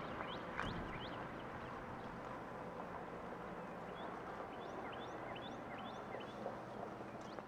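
Small birds chirping repeatedly in short quick calls, over a faint steady low hum and background haze.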